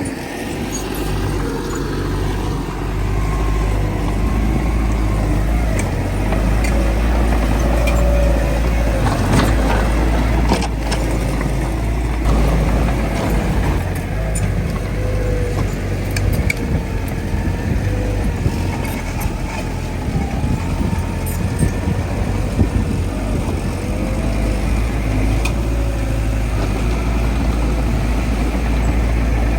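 Diesel engine of heavy earthmoving machinery running steadily under load, its pitch wavering up and down, with a few short knocks and clanks.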